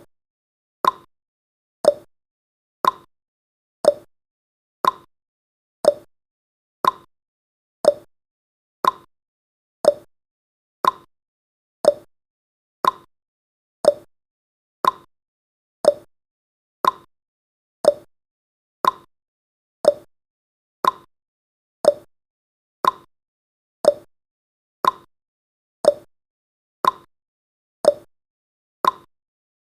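A countdown timer's tick sound effect: a short, sharp tick once every second, steady and evenly spaced.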